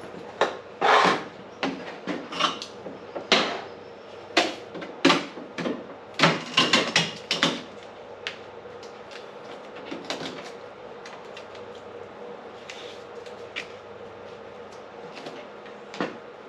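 Workshop handling noise: a quick run of knocks and clatters for about eight seconds, then a few scattered clicks, over a steady faint hum.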